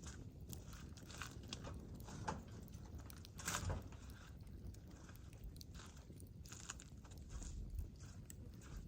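Wood campfire crackling, with irregular small pops and a louder cluster of cracks about three and a half seconds in.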